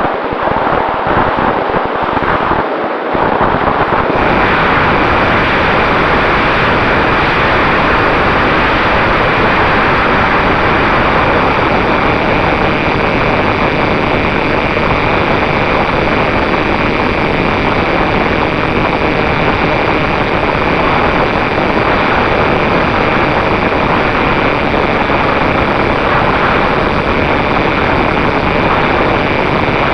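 Mini Talon RC plane's electric motor running under a steady rush of wind noise. The noise is gusty for the first few seconds, then settles into a steady, loud whir with a faint whine from about four seconds in.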